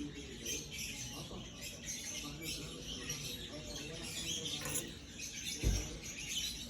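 Birds chirping in many short calls, with a single low thump about five and a half seconds in.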